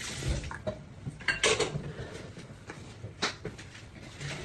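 Dishes and cutlery clinking and knocking a few times, with the loudest strikes about a second and a half in and a little after three seconds.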